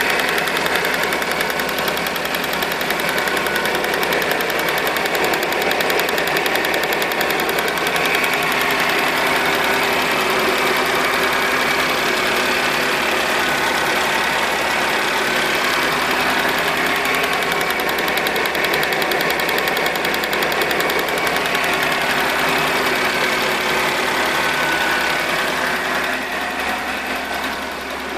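Car engine running with the evaporative-emissions canister purge solenoid valve ticking rapidly and steadily. This is the purge-valve knock in question. The sound eases a little near the end.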